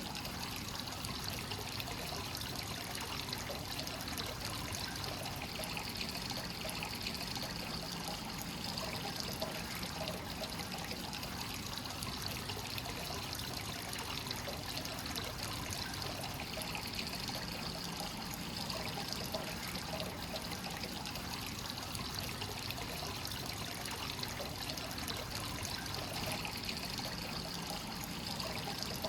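Hot-spring water flowing continuously into a bath, a steady pouring and trickling with slow gentle swells.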